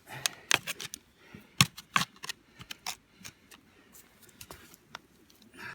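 A spade digging in silty soil: irregular scrapes and sharp knocks of the blade against earth and roots.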